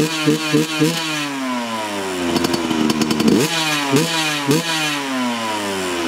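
KTM 125 SX two-stroke motocross engine being revved in quick throttle blips, about three a second at first, its revs then falling away slowly; a few more sharp blips come about halfway through, each followed by a long drop in revs.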